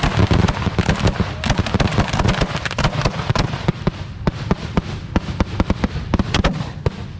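Fireworks going off in a rapid volley of many bangs and crackles overlapping each other, thinning out to separate reports about halfway through.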